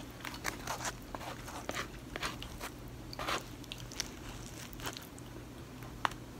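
Close-miked eating of stuffed green bell peppers: irregular wet chewing and mouth clicks, mixed with the light clicks and scrapes of a knife and fork on plates, over a faint steady hum.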